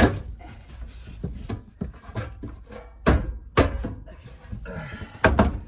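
Several sharp wooden knocks and thuds at irregular intervals, the loudest at the start, about three seconds in, half a second after that, and near the end: a 2x4 being knocked and forced into place.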